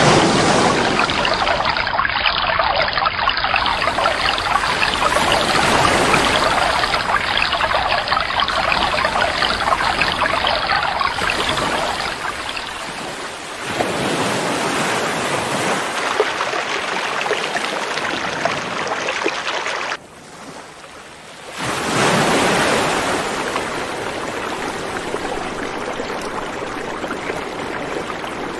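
River water rushing in a steady wash of noise. Its character shifts abruptly a few times where the takes are joined, and it drops much quieter for about a second and a half about two-thirds of the way through.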